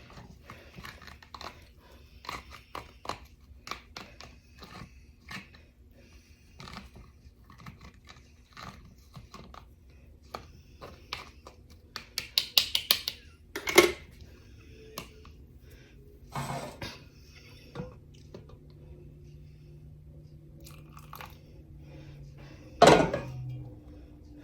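A utensil clicking, tapping and scraping against a glass jar as brine is worked down into packed minced garlic, with a quick run of clicks about halfway and a louder thump near the end.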